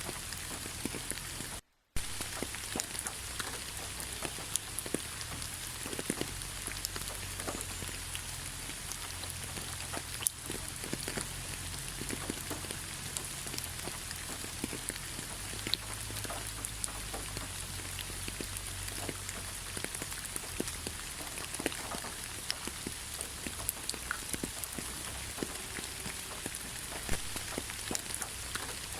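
Steady rain falling on a forest road, many individual drops ticking over an even hiss. The sound cuts out completely for a moment just before two seconds in.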